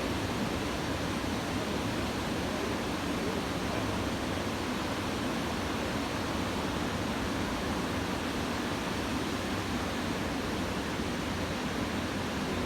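Steady rushing noise of typhoon swell surf breaking on the beach, with no single wave crash standing out.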